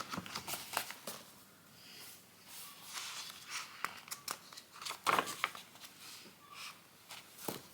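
Irregular clicks, taps and crinkling, as of small objects and packaging being handled close to the microphone, with a louder cluster of knocks about five seconds in.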